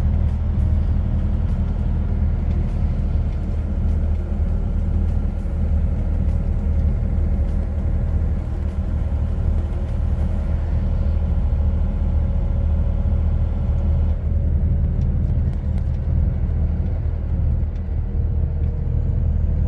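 Semi-truck driving at a steady speed: a continuous low engine and road-noise drone.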